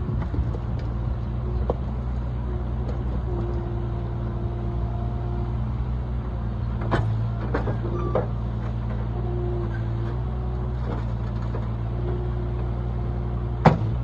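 Bobcat skid-steer loader's engine running steadily, with a few sharp knocks about halfway through and a louder single clank near the end.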